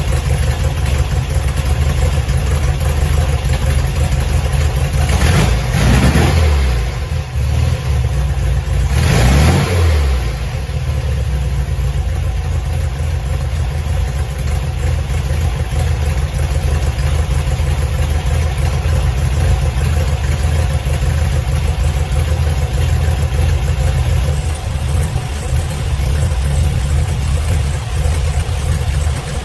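1966 VW Beetle's air-cooled 1680cc flat-four engine, on a new 6-volt Pertronix electronic ignition distributor and Bosch coil, idling steadily, with two short revs about five and nine seconds in. It runs and idles well on the new ignition.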